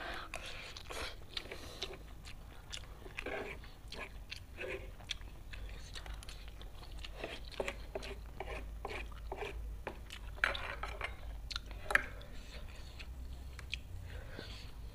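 Close-up chewing and mouth smacking while eating spicy fried instant noodles, many small irregular wet clicks, with occasional clinks of a metal spoon and fork against the metal tray; a couple of sharper clicks stand out about ten and twelve seconds in.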